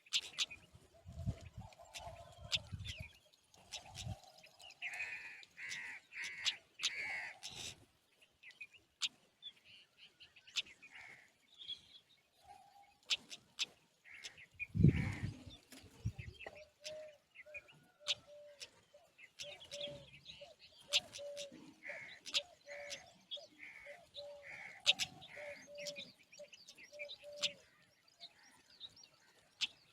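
Small birds chirping and calling in short clusters. From about the middle, one bird gives a steady run of lower notes about once a second. Sharp clicks are scattered through, and a loud low thump comes about halfway.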